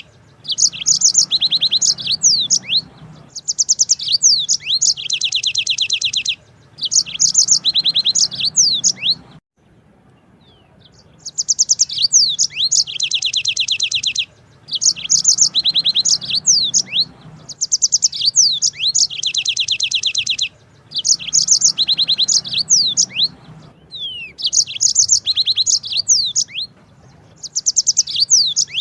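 Yellow-fronted canary singing in repeated phrases of two to three seconds each: fast, high trills mixed with quick whistled slides, with short pauses between phrases and a longer pause about ten seconds in.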